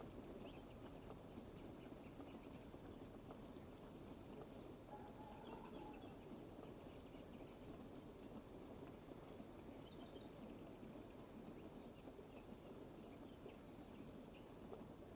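Faint, steady rain, with a few faint short bird calls now and then.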